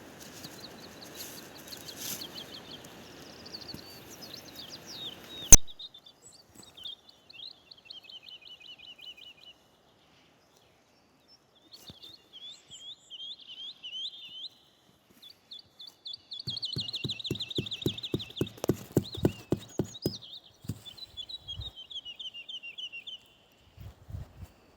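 Small songbirds singing repeated trills. A steady hiss for the first five seconds cuts off at a sharp click. Later a run of quick thuds, about four a second, lasts a few seconds.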